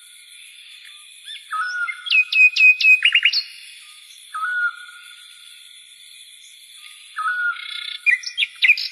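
A songbird singing in repeated phrases, each opening with a short flat whistle, some followed by a quick run of falling and then rising chirps. A faint steady high hiss runs behind it.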